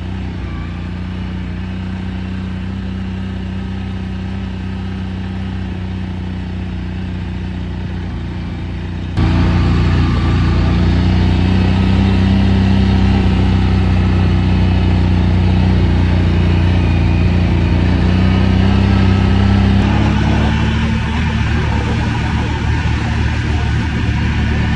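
CFMOTO 1000 cc motorcycle engine running steadily while riding. It gets suddenly louder about nine seconds in, and its pitch creeps slightly higher near the end.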